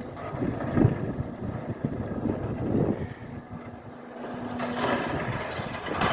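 Heavy demolition machinery working, with an irregular low rumble and a steady engine tone for a couple of seconds midway, then a louder rush of noise near the end, with wind on the microphone.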